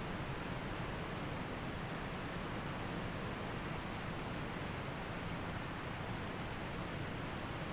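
Waterfall and creek water falling and running in a steady, even hiss.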